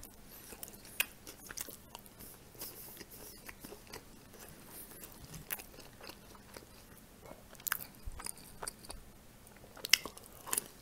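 Close-up chewing and mouth smacking while eating pan-fried pelmeni dumplings, with soft wet clicks and a few louder bites toward the end.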